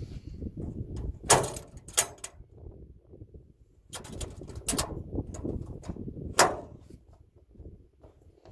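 Sharp metal clacks and knocks of a truck cargo-bed gate latch being snapped open and shut, the two loudest about a second in and past the middle, over a low rumble.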